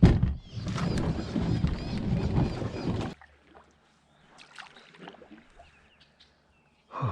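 Wind rushing over the microphone on a kayak for about three seconds, cutting off suddenly, followed by faint scattered knocks and water sounds.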